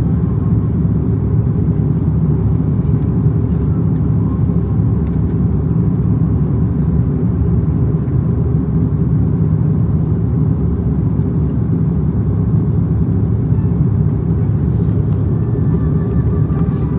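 Steady low rumble of an airliner cabin in flight, engine and airflow noise heard from inside.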